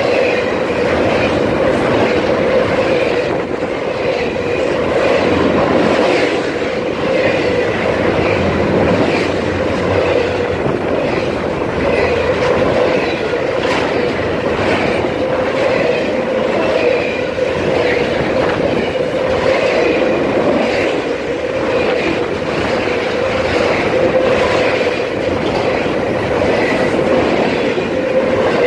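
Double-stack container freight train's well cars rolling past close by: loud, steady noise of steel wheels on the rails, with a ringing tone over it and scattered clicks as the wheels cross the rail joints.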